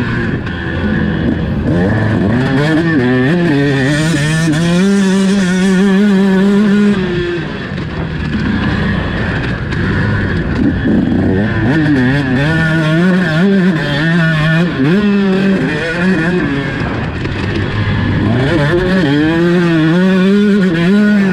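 Motocross bike engine revving hard while ridden, its pitch climbing and falling again and again as the throttle is worked, with short drops when the throttle is shut about 8 seconds in and again near 17 seconds.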